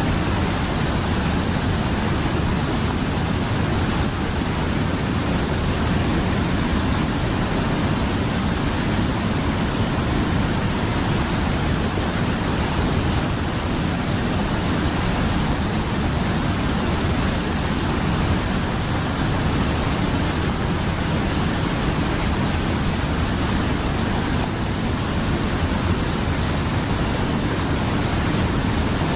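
Mountain river flowing: a steady, full rush of water over rocks, even and unbroken.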